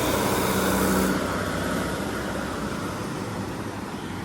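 Class 156 diesel multiple unit pulling out, its engine note steady for about a second and then fading as the train moves away.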